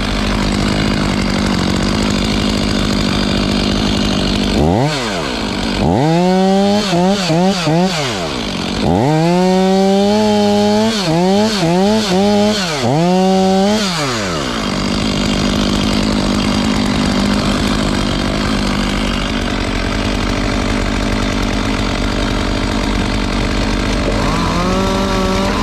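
Two-stroke chainsaw idling, then revved in a run of quick throttle bursts, each rising and falling in pitch, for about ten seconds before settling back to idle. A short rev comes near the end.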